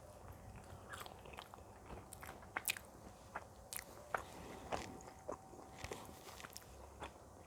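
Close-miked eating of pizza: chewing and biting, with irregular sharp mouth clicks and small crunches.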